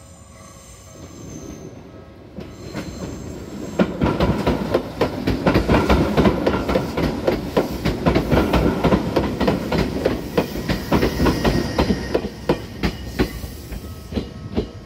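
Izu Kyuko 8000 series electric train (ex-Tokyu 8000) passing close by. A rumble builds over the first few seconds, then gives way to rapid clicking of wheels over rail joints as the cars go past, before it fades near the end.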